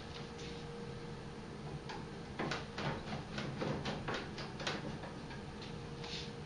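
Light clicks and knocks of a combi boiler's casing being handled and fitted back on, coming in a quick run around the middle, over a faint steady hum.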